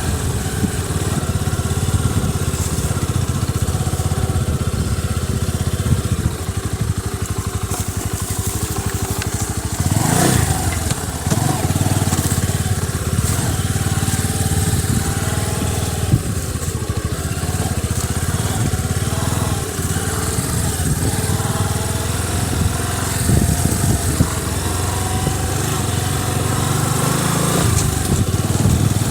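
Small motorcycle engine running steadily under way, with the revs rising and falling briefly about ten seconds in.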